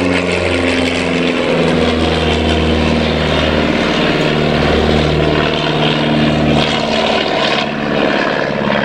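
Miles Gemini light twin's piston engines and propellers droning in flight, a steady hum that shifts slightly in pitch.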